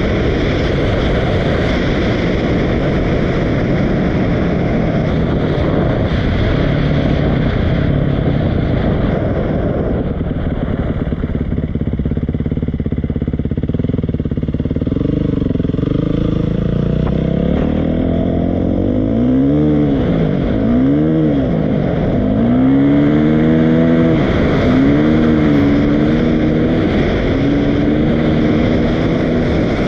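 Dirt bike engine under a heavy rush of wind noise at first. About halfway through, the engine comes clear and revs up and down several times.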